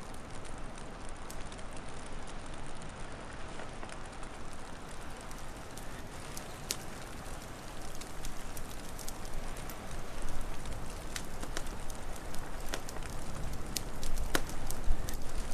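Wood fire crackling: scattered sharp pops and snaps over a steady rushing hiss, the pops coming more often and louder in the second half.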